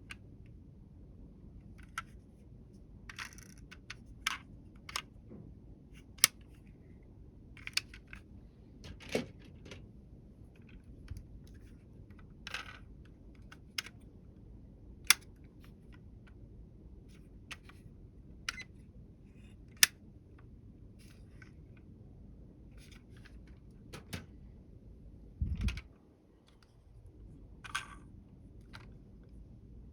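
Scattered sharp clicks and light taps of small hard objects being handled, roughly one every second or two, over a faint steady low hum; one heavier low thump near the end.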